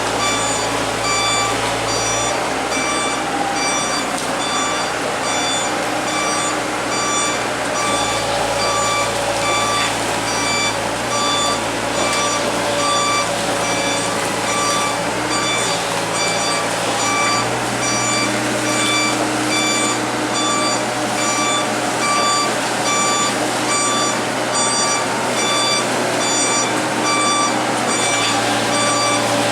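Komatsu excavator's warning alarm beeping steadily and evenly, over the machine's diesel engine running; the engine note shifts a few times as the machine works.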